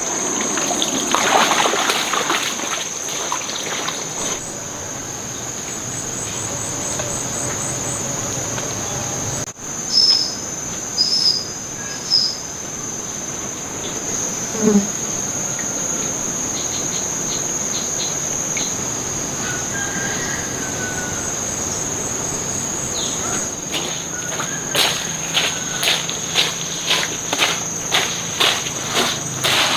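Steady, high-pitched drone of insects in the forest, with a few short high chirps about ten seconds in. Over the last several seconds a run of evenly spaced sharp knocks comes in, roughly two a second.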